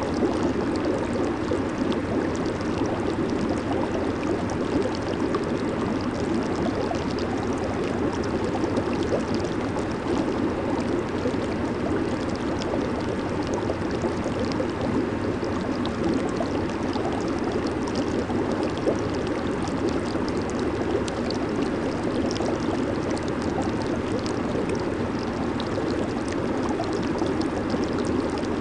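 Jacuzzi (hot tub) water bubbling and churning steadily, a continuous rushing hiss dotted with small bubble pops.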